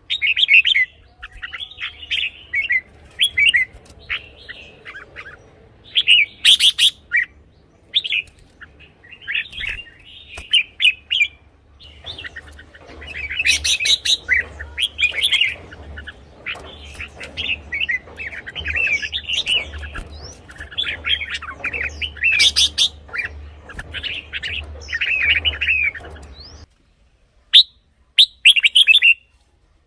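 Red-whiskered bulbul singing short, bubbly whistled phrases over and over with brief pauses, with a low hum underneath for much of the time. The song breaks off near the end, leaving only a couple of short notes.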